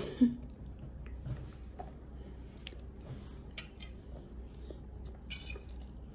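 Faint chewing and small mouth clicks of a person eating a biscuit, over a steady low hum, after a short vocal sound at the very start.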